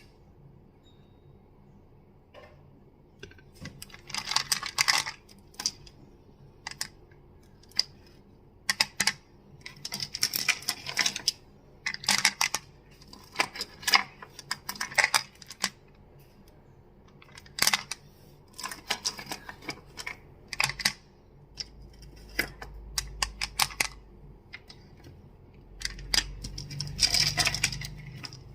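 Crystals clicking and clacking against each other in quick clusters of sharp clicks, each burst lasting a second or two, with short pauses between. A low rumble runs under the last several seconds.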